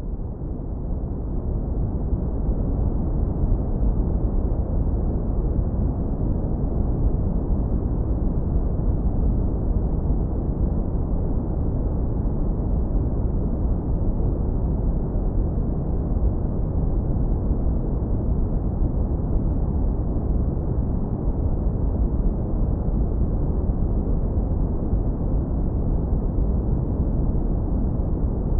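Deep brown noise, hard low-passed so it sits mostly in the bass, strongest at the very bottom. It is a steady rumble that swells up over the first few seconds.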